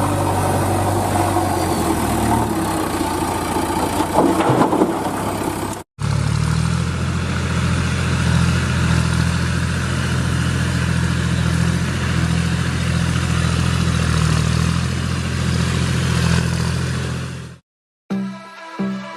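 Tractor engine running, its pitch rising and falling in the first few seconds; after a sudden cut, a tractor engine running steadily, which cuts off near the end.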